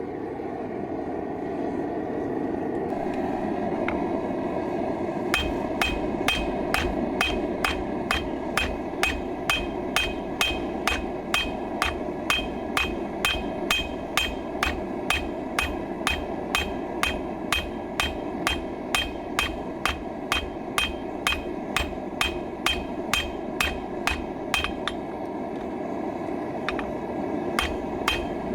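Hand hammer striking a hot horseshoe on a steel anvil at a steady pace of about two blows a second, each blow ringing, flattening the steel out into a knife blade. The blows begin about five seconds in, over the steady rushing noise of the forge running.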